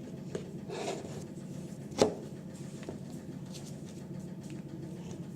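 Small taps and clicks of a stirrer and container as slime is mixed, with one sharper knock about two seconds in, over a steady low hum.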